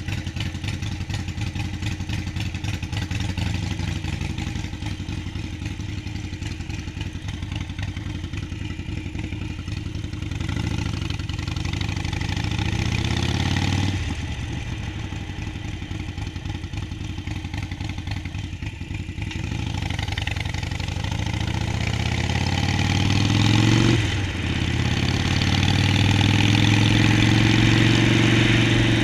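Harley-Davidson Sportster Forty-Eight's V-twin engine under way, pulling up through the gears: the note climbs, drops at a shift about halfway through, climbs again, drops at another shift late on, then holds steady and louder.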